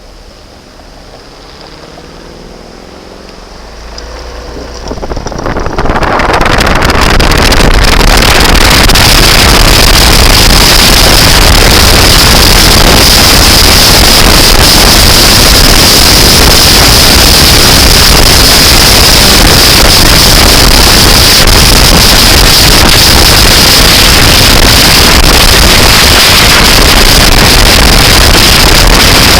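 Loud, steady rushing noise that builds over the first several seconds and then holds: wind blasting the microphone with the running noise of a moving vehicle.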